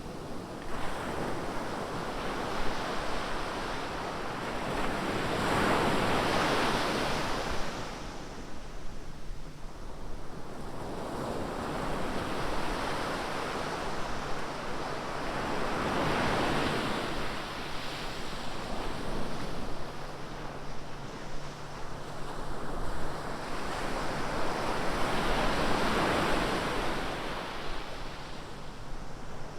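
Ocean surf: three waves break and wash in, about ten seconds apart, over a steady hiss of water between them.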